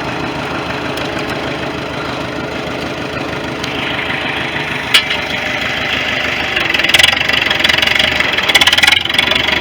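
1973 International 3444 loader tractor's engine running as the tractor drives in high gear, getting louder about three and a half seconds in. A sharp click comes about five seconds in, and a dense rattling clatter near the end.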